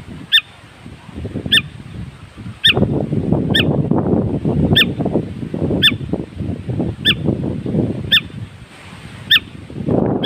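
A bird calling over and over, one short, sharp, high call roughly every second. Under the calls runs a low, uneven rumbling noise that swells and fades.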